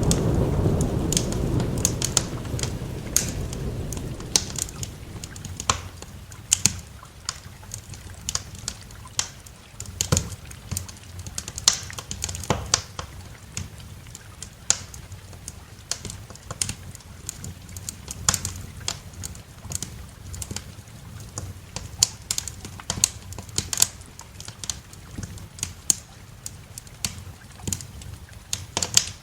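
A thunder rumble dying away over the first few seconds, then a wood fire in a fireplace crackling: irregular sharp pops and snaps of burning wood, a few of them louder.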